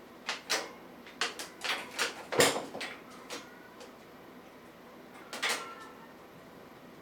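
A run of short knocks and rustles, about a dozen, the loudest about two and a half seconds in and a last cluster about five and a half seconds in.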